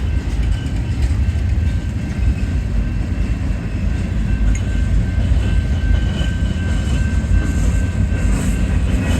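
Freight cars of a slow-moving Union Pacific manifest train rolling past a grade crossing: a loud, steady, heavy rumble of wheels on rail.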